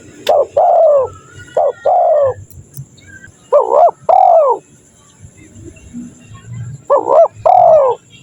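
Spotted dove (tekukur) cooing: four phrases, each a short note followed by a longer one, with a longer pause before the last.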